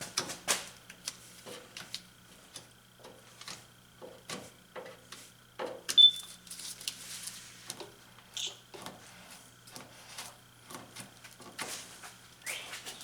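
Irregular clicks, taps and scrapes of hand work on a car body, with one sharp metallic clink about six seconds in, over a faint steady low hum.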